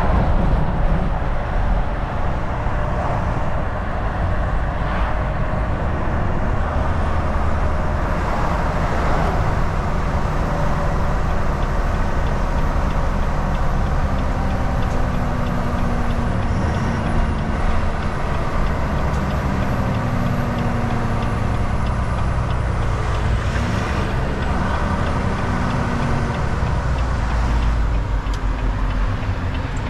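Volvo VNL 760 semi truck driving steadily: continuous engine drone with road and tyre noise.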